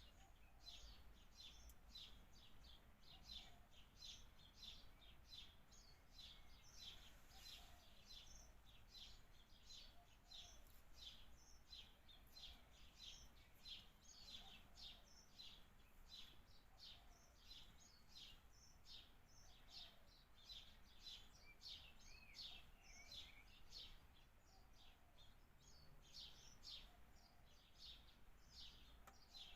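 Birds chirping faintly, short high chirps repeated steadily, a little more than one a second.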